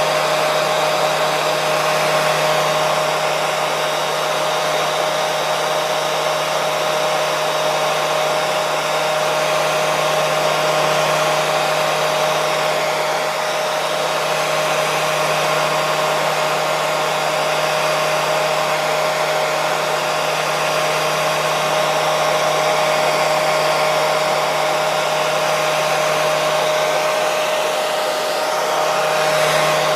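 Hair dryer running continuously: a steady whoosh of blown air with a constant motor hum, unchanging in pitch and level.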